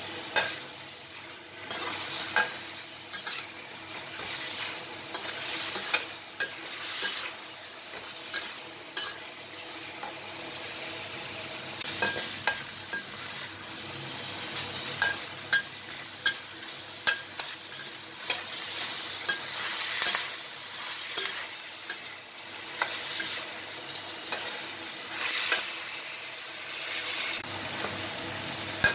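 Chicken pieces frying in hot oil in a wok, sizzling steadily while being stirred, with frequent sharp knocks and scrapes of the cooking utensil against the pan.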